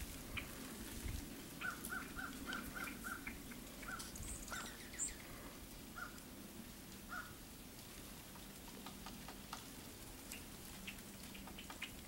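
Wild birds calling faintly. A run of about six short calls comes in quick even succession a couple of seconds in, followed by scattered single calls and a few thin, high-pitched chirps.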